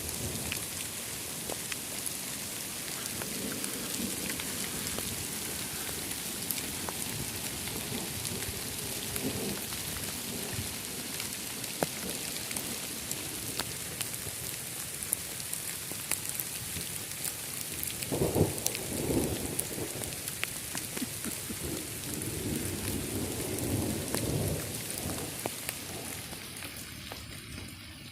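Heavy rain and hail falling through the trees, a steady hiss with scattered sharp ticks of hailstones striking. Thunder rumbles roll in several times, the loudest about eighteen seconds in.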